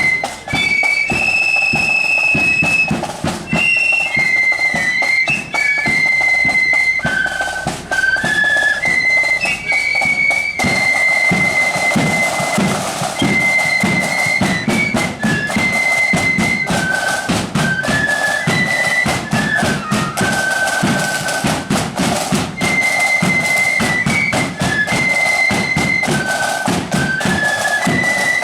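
A marching flute band playing a tune: a line of flutes carries the melody over snare and bass drums beating steadily.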